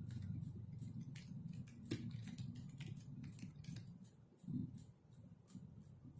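Computer keyboard typing: irregular, light key clicks at an uneven pace. A low steady hum sits under them and fades away about four seconds in.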